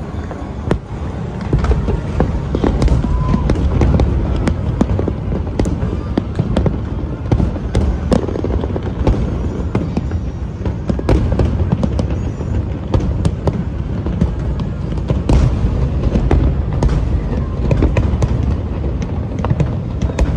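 Fireworks going off in rapid succession: many sharp bangs and crackles over a continuous low rumble of shell bursts.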